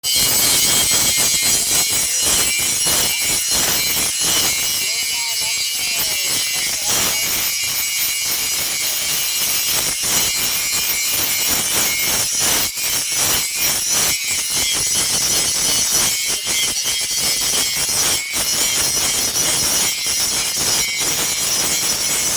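Loud, continuous rasping and scraping from blacksmith's metalwork, made of many quick strokes close together.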